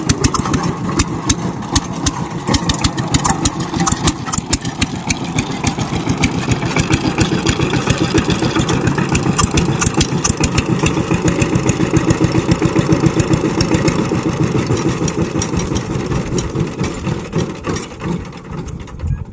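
Power tiller engine running steadily with a rapid, even beat of firing pulses. It grows a little quieter near the end.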